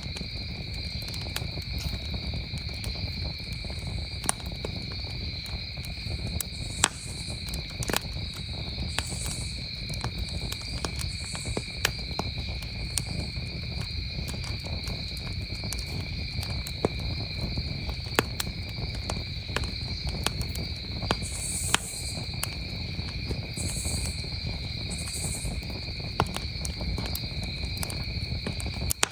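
Campfire crackling, with scattered sharp pops over a steady low rumble, while a chorus of crickets chirps steadily at a high pitch.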